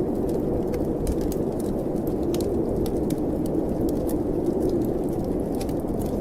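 Snowstorm wind blowing steadily, with a wood fire crackling in a fireplace over it: scattered sharp snaps and pops.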